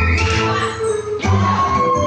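A band playing a song at rehearsal, with a strong bass line, held keyboard-like notes and percussion.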